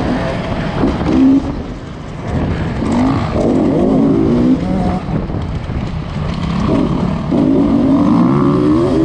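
Beta 300 RR's two-stroke single-cylinder engine revving up and down under load over a motocross track. The throttle closes briefly about two seconds in, then the engine climbs again and holds high revs near the end.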